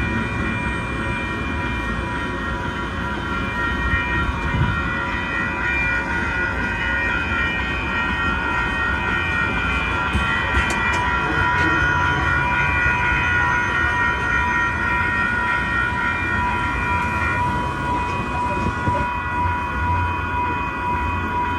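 A train rumbling through a grade crossing while the crossing's electronic bell rings on as a steady, piercing set of tones.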